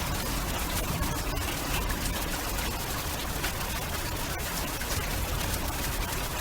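Steady rain falling: an even hiss with many small, sharp drop ticks and a low rumble underneath.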